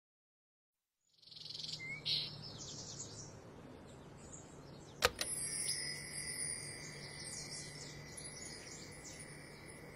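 Faint birdsong, short high chirps and whistles, over a soft steady hum, with one sharp click about five seconds in.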